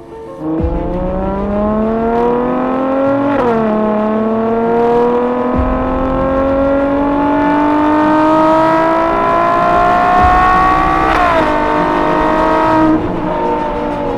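Ferrari 812 GTS's naturally aspirated 6.5-litre V12 accelerating, its pitch climbing and then dropping sharply at two upshifts, about three seconds in and about eleven seconds in. It eases off near the end.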